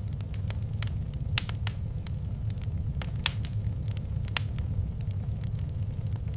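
Wood fire burning in a fireplace: a steady low rumble with irregular sharp crackles and pops, the loudest pops about 1.5, 3.5 and 4.5 seconds in.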